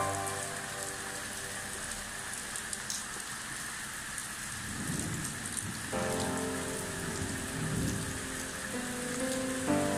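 Steady rain falling on roofs, plants and wet paving, an even hiss. About six seconds in, soft background music with held, stepping notes comes in over the rain.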